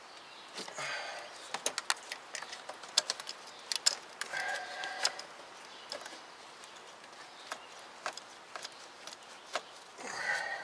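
Scattered light clicks and taps of hoses, clips and plastic parts being handled and fitted in a car's engine bay, with brief scraping sounds about a second in and again between four and five seconds in.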